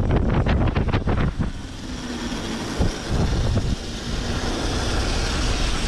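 Low vehicle rumble with wind noise on the microphone, and a quick run of clicks over the first second and a half.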